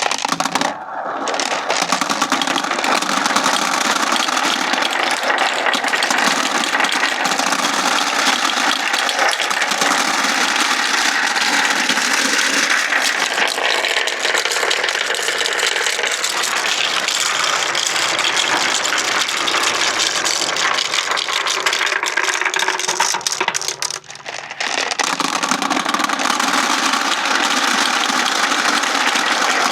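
Many marbles rolling and clattering down wooden ramps in a dense, continuous rattle of clicks and knocks. It drops away briefly about a second in and again about 24 seconds in.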